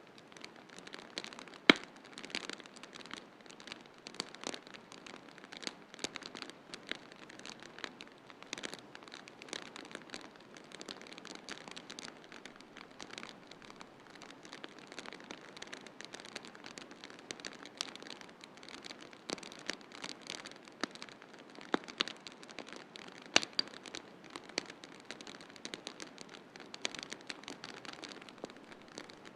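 Wood fire crackling in a fireplace: irregular sharp pops and snaps over a steady hiss, with the loudest pops about two seconds in and again near twenty-three seconds.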